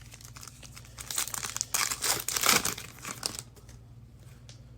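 Crinkling and tearing of plastic trading-card packaging, handled by hand for about two and a half seconds, loudest just past the middle, then stopping.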